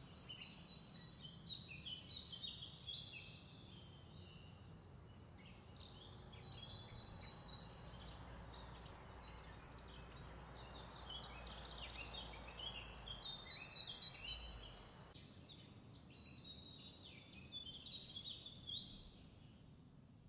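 Several birds singing and chirping, short quick phrases one after another, over a faint low steady rumble of background noise.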